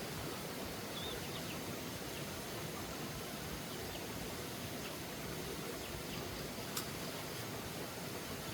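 Steady outdoor background hiss with a few faint, short high chirps in the first half and a single sharp click about seven seconds in.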